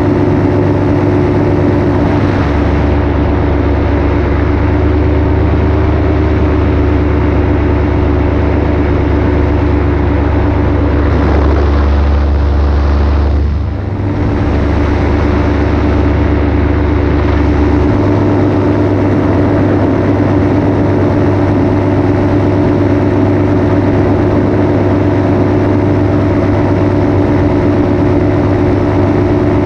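Paramotor engine and propeller running steadily at cruise power in flight. A heavy low rumble underneath thickens for much of the middle, and the level dips briefly about fourteen seconds in before recovering.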